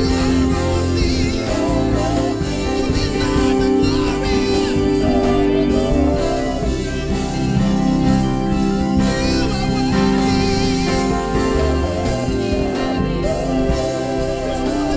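Gospel worship music from a live band, steady and loud, with a singer's voice wavering over sustained chords.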